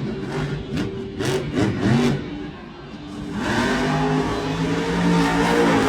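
Monster truck engine revving hard, its pitch rising and falling, with a few sharp knocks in the first two seconds; it drops back briefly about three seconds in, then revs up again and holds high.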